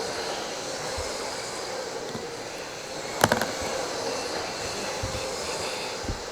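RC racing trucks with 21.5-turn brushless electric motors running laps together: a steady whir of motors and tyres with high whines rising and falling, and a sharp crack a little over three seconds in.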